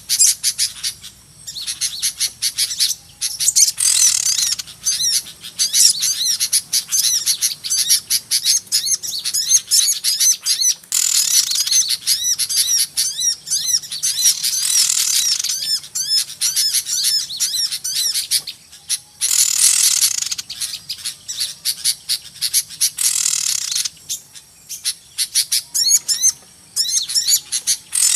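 A dense, noisy chorus of many small birds chirping and twittering rapidly and high-pitched, with busier, louder stretches every few seconds.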